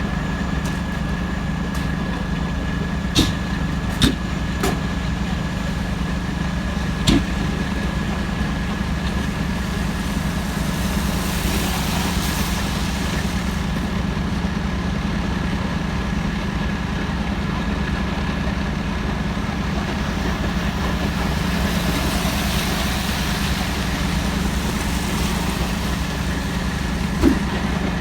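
Heavy truck engine idling with a steady low rumble and a thin steady high whine over it. A few sharp clicks or knocks come through, several in the first third and one near the end.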